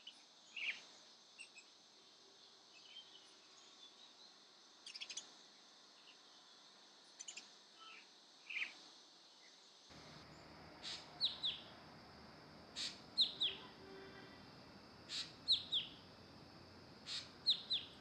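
Small birds calling: scattered short chirps, then from about halfway a call repeated every two seconds or so, a sharp high tick followed by two quick falling whistled notes, over a steady high hiss.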